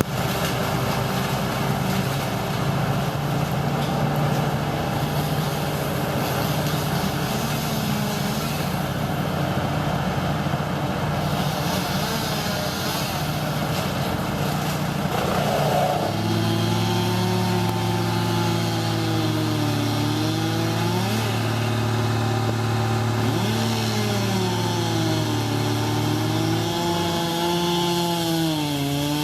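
Engines running steadily. About halfway through the pitch steadies and a second, lower engine tone joins; the higher engine's pitch then dips and climbs back several times, rising sharply near the end as it revs.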